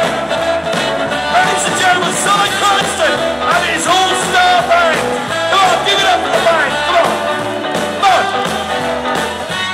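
Live rock and roll band playing with a steady driving beat: drums, bass and electric guitar, with bending melodic lines throughout.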